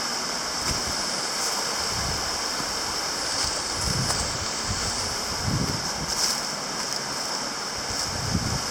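Steady rush of falling and flowing water from a creek waterfall, with a few low gusts of wind buffeting the microphone.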